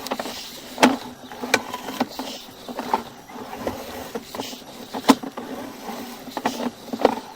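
Irregular knocks and clicks over a faint steady hum: a drain inspection camera being pulled back out through a blocked stormwater pipe.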